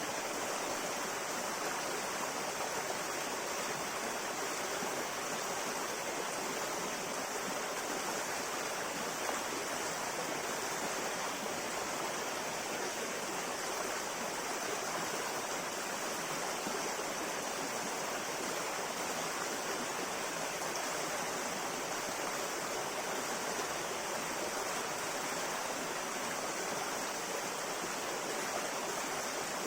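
River water flowing steadily, an even rushing and babbling with no breaks.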